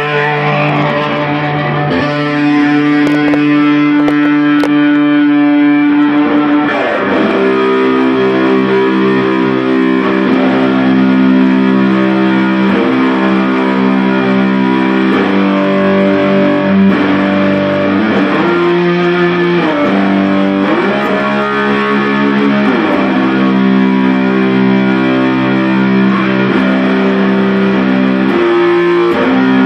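Electric guitar played through distortion, with held notes and chords. From about seven seconds in the notes are bent up and down in pitch.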